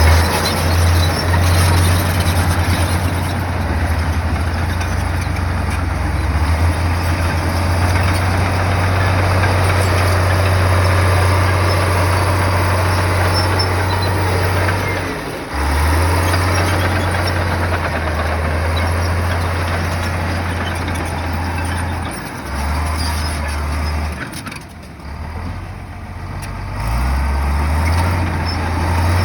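Heavy diesel engine of a bulldozer working, a steady low drone with a dense mechanical clatter over it. It drops briefly about halfway through and eases off for a few seconds near the end before picking up again.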